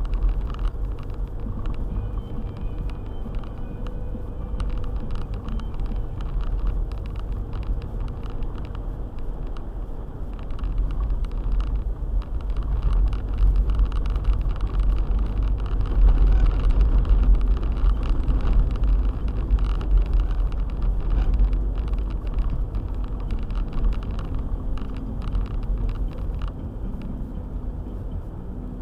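Car driving along, a steady low rumble of engine and tyres on the road that swells louder through the middle.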